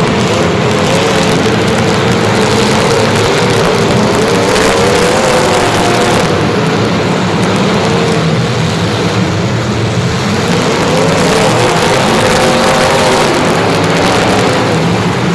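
A motor vehicle's engine running loudly and steadily, its pitch wavering slightly up and down.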